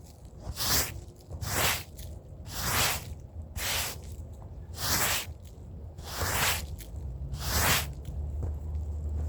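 Stiff brush scrubbing a wet, soapy rug by hand: about seven swishing strokes roughly a second apart. A steady low hum comes in near the end.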